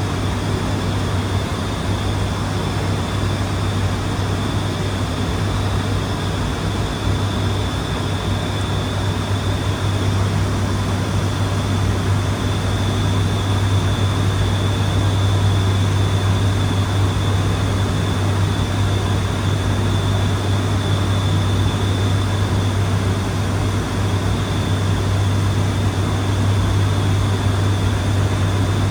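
Steady drone of an ATR 72-600's Pratt & Whitney PW127 turboprop engines and six-blade propellers in flight, with a strong low hum and a thin steady high whine over a constant rush of noise.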